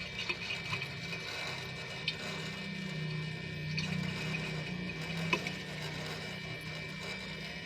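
Refrigerator compressor running with a steady low hum, overlaid by an irregular crackling of scattered clicks from inside it, like frying chicken. The compressor still runs at full capacity, so the odd noise is coming from inside its housing.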